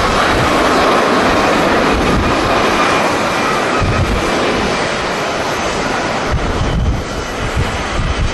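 Jet airliner's engines passing by, a loud, steady rushing noise that slowly eases, with gusts of wind buffeting the microphone.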